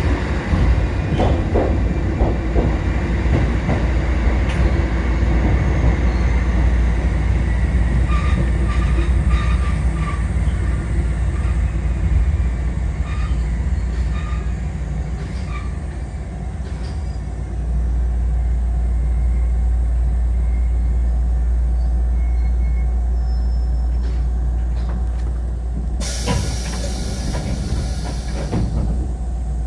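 Kotoden 1080/1100-series electric train running on the rails: a steady low hum with wheels clicking over rail joints, slowing toward a station stop. A short burst of air hiss comes about 26 seconds in.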